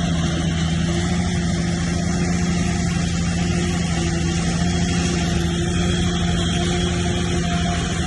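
Bulldozer's diesel engine running steadily under load, an even low hum that holds the same pitch throughout.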